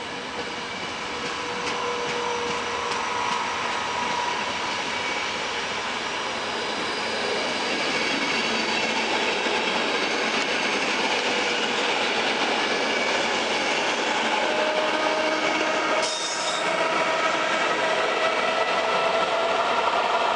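Passenger coaches of a long train rolling past at speed: a steady rush of wheels on rail with thin squealing tones. About sixteen seconds in the sound breaks off and a second electric train is heard approaching, with a faint rising whine.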